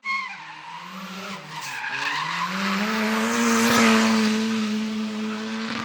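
Drift car sliding with its tyres squealing and its engine held at high revs. It grows louder to a peak about four seconds in, then eases off slightly.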